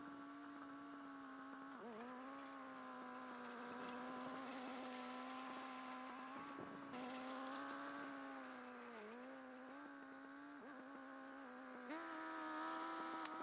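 Faint, distant tractor engine driving a PTO brush cutter: a steady buzzing drone whose pitch dips briefly about two seconds in and again around nine seconds, then steps up slightly near the end.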